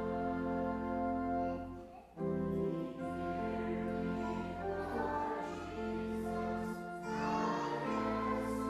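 Congregation singing a hymn with instrumental accompaniment, in held chords that change every second or so, with a brief break between phrases about two seconds in.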